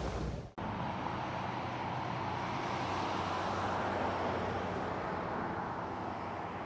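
Road traffic noise outdoors: a steady rush that swells a little toward the middle and eases off again.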